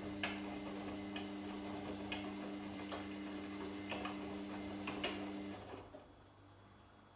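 Washing machine running: a steady motor hum with a light click about once a second as the drum turns. The motor cuts off about two-thirds of the way in, leaving only a faint background.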